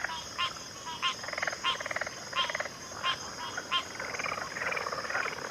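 Chorus of frogs calling: sharp clicking calls repeat about every two-thirds of a second for the first four seconds, overlapping trilled, pulsing calls, with a steady high-pitched drone behind them.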